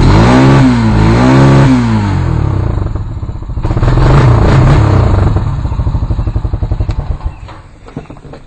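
Honda Rancher 350 ATV's single-cylinder four-stroke engine, just started and blipped: two quick revs, another a few seconds later, then the engine slows and dies away near the end.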